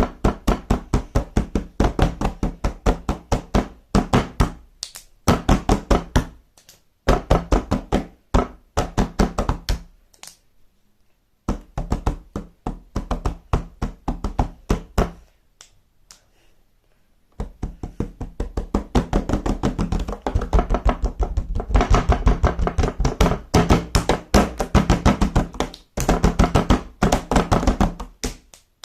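Rapid rhythmic knocking and tapping, played in phrases with short pauses between them.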